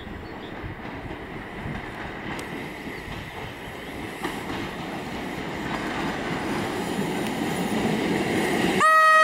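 Electric multiple unit passenger train approaching, its running noise of wheels on rails growing steadily louder. Just before the end, its horn starts with a loud, steady chord.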